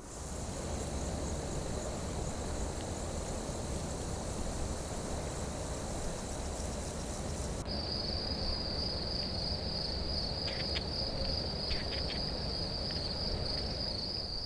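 Outdoor ambience with a steady low rumble and insects calling. A loud, high, fast-pulsing insect trill comes in about eight seconds in.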